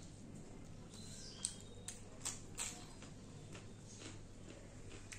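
Chewing with wet mouth clicks and lip smacks: a few sharp smacks in the middle, over a faint steady hum.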